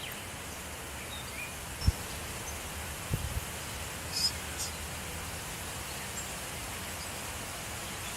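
Steady wind noise outdoors, with a sharp low thump about two seconds in and a couple of softer knocks about a second later, and a brief high chirp near the middle.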